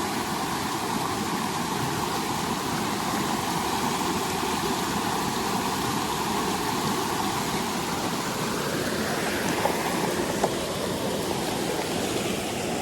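Steady rush of creek water tumbling over small falls, with a couple of faint ticks near the end.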